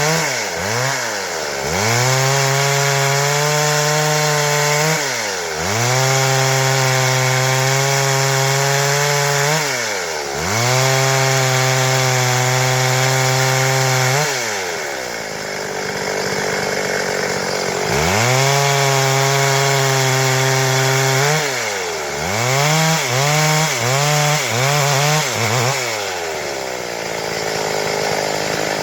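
Stihl MS 382 two-stroke chainsaw cutting wood at full throttle in steady passes of about four seconds, the revs dropping and climbing back between passes. It falls to a lower speed for a few seconds midway, is blipped several times in quick succession later, and runs at low revs near the end.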